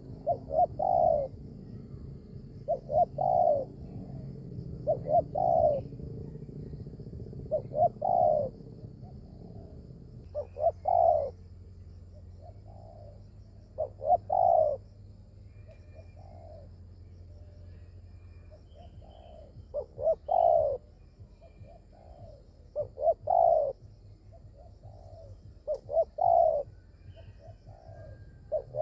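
Spotted doves cooing: repeated phrases of a few short notes ending in a longer coo, one every two to three seconds. A low steady hum runs underneath.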